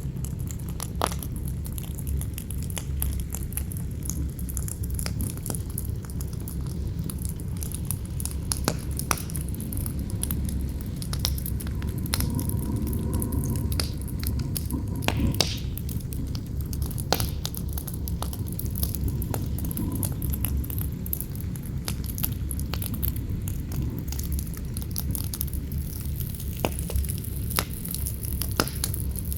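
Campfire crackling, with frequent sharp pops and snaps over a steady low rumble of wind.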